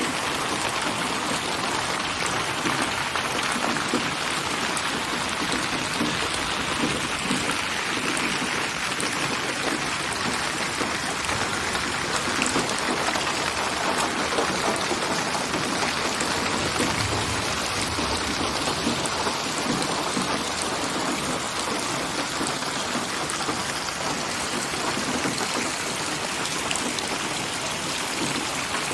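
Steady rain with many individual drops striking surfaces: a rain ambience assembled by software from hundreds of recorded rain samples.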